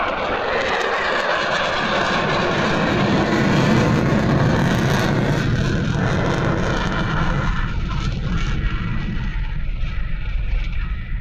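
An airplane's engine noise as it flies past, growing to its loudest about four seconds in and fading away after about seven and a half seconds.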